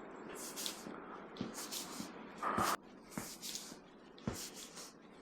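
Footsteps walking at an easy pace, about one step a second, each a soft thud with a scuffing crunch; a brief louder rustle about halfway through.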